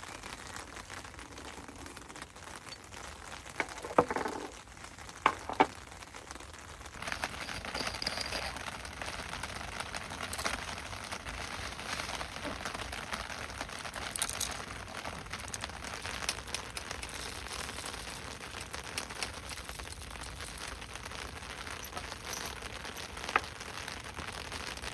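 Heavy rain falling steadily, with a few sharp knocks about four and five seconds in and once more near the end; the rain gets louder about seven seconds in.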